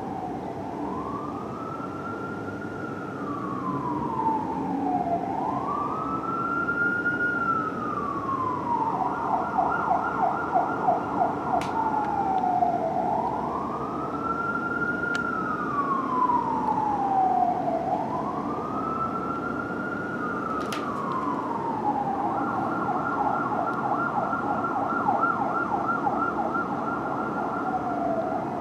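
Fire engine siren on a 1994 Duplex D500 pumper, wailing up and down about every four to five seconds. Twice it switches to stretches of rapid yelping. Heavy truck engine rumble runs underneath.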